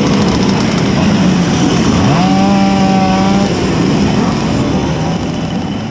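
Tuned 90 cc reed-valve Simson S51 two-stroke engine running under way, climbing in pitch about two seconds in and holding a high steady rev for a second or so before easing off. The sound fades toward the end.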